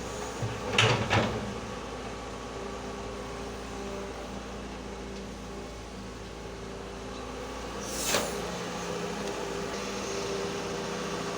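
Excavator engine running steadily, with a pair of sharp metallic knocks about a second in and another near eight seconds.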